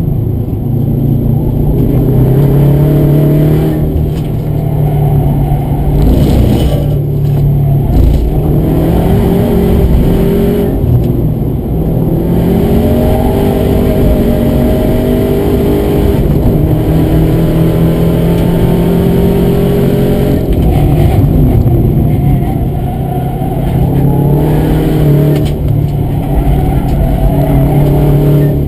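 2009 Subaru WRX's turbocharged flat-four engine driven hard, heard from inside the cabin: the engine note climbs through the gears and falls away several times, over a constant low road rumble.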